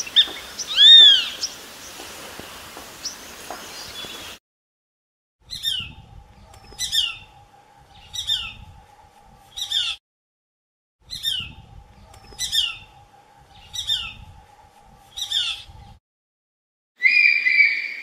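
Bird calls heard across several clips: a loud arched whistled call about a second in, then two runs of four sharp, downward-sliding calls repeated about every one and a half seconds, and a different, steadier call near the end.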